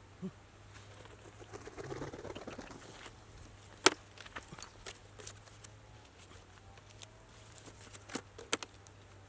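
Light rustling, then scattered sharp clicks and taps; the loudest click comes about four seconds in and two more come near the end.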